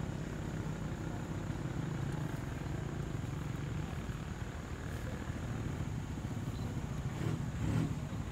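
A vehicle engine idling steadily, a low continuous hum.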